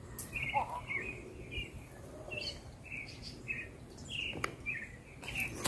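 Wild birds chirping quietly in short, repeated calls, about two a second.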